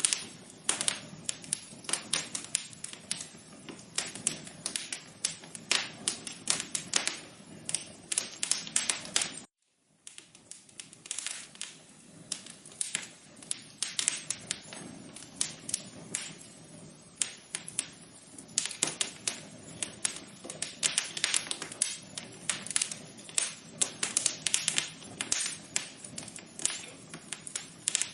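Wood fire crackling: dense, irregular snaps and pops over a soft steady hiss. The sound cuts out briefly about a third of the way through.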